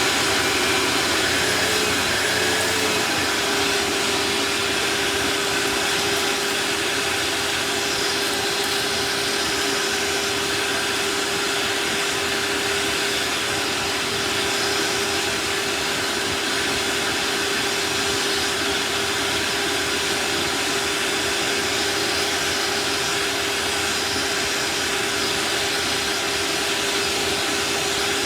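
An old vacuum cleaner running steadily through its hose attachment, sucking debris off a cat food tray: an even rushing noise with a steady hum, which wavers briefly a couple of seconds in.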